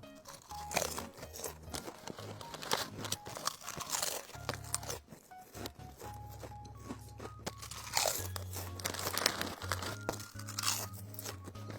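Potato chips crunched in close bites and chewed, over background music.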